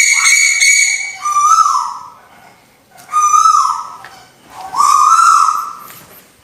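Lure recording of a tuwu owl calling: four loud, whistle-like calls, each under a second long, about a second apart, each rising slightly and then falling.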